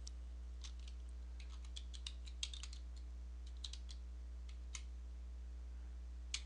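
Computer keyboard being typed on: scattered, irregular keystrokes over a steady low hum.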